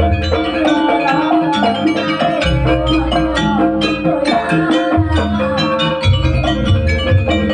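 Live jaranan Banyuwangi ensemble music: tuned metal gamelan-type instruments play a fast, busy pattern over drums. A deep low bass part drops in and out in stretches.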